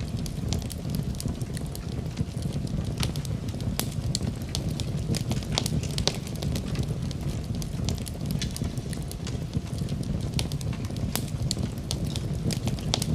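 Fire burning in a fireplace: a steady low rumble with irregular sharp crackles and pops, several a second.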